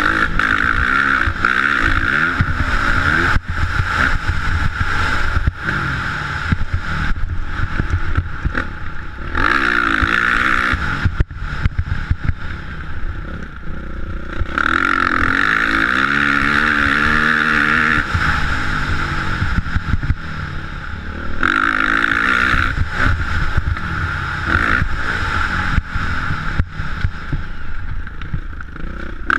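Motocross motorcycle engine running and revving, its pitch rising and falling repeatedly, over a rough low rumble.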